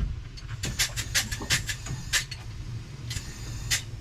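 A series of sharp clicks and light knocks, about ten of them at uneven intervals, over a steady low hum.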